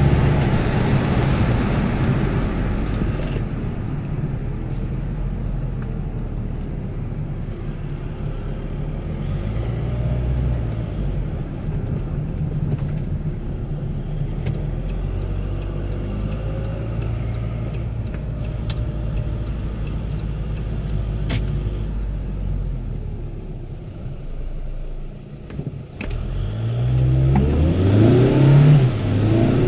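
Volkswagen 2.0 TDI BKD four-cylinder turbodiesel running under way, with a hiss over the engine note in the first few seconds. Near the end the engine quietens briefly, then its pitch climbs and it grows louder as the car accelerates.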